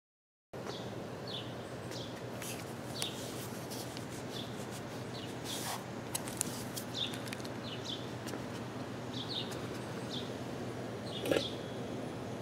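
Silent for the first half second, then a steady background hiss with small birds chirping now and then in short, high calls.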